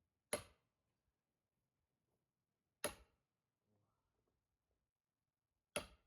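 Three heavy splitting blows on a log of firewood, about two and a half to three seconds apart, each a sharp crack that dies away quickly.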